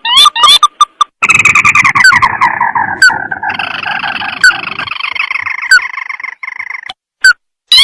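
Crake calls used as a lure: a few quick sharp rising notes, then from about a second in a long rattling trill that slides down in pitch, followed by a second long trill and a couple of single notes near the end.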